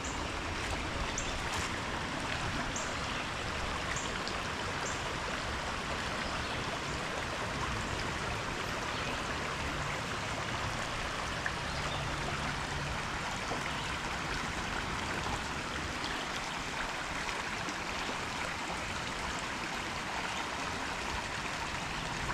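A small stream running steadily.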